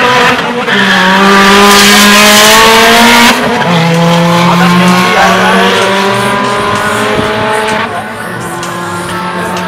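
A car's engine accelerating hard down the drag strip. The pitch climbs, drops at a gear change about three seconds in, climbs again through the next gear, and drops at another shift near the end as the car pulls away and fades.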